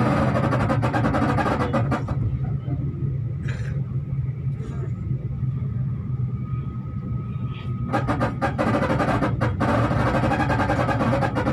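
V/Line passenger train running, heard from inside the carriage: a steady low rumble with two spells of fast clattering, one at the start and one from about eight seconds in, and a thin steady whine through the second half.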